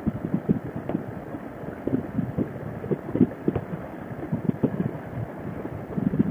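Wind buffeting the microphone of a moving motorcycle at road speed, an uneven low rumble of gusts.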